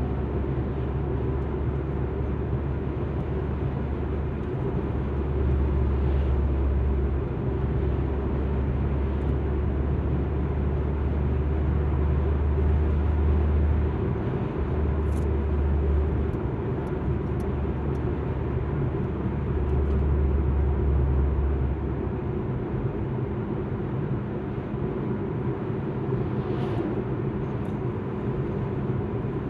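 Alfa Romeo MiTo driving along, heard as a steady low rumble of engine and road noise with tyre noise above it. The rumble swells and falls several times and eases off a little past two-thirds of the way through, with a couple of faint clicks.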